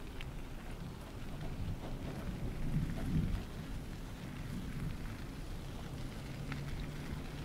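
Wind buffeting the microphone as a steady low rumble, swelling briefly about three seconds in, with a few faint ticks.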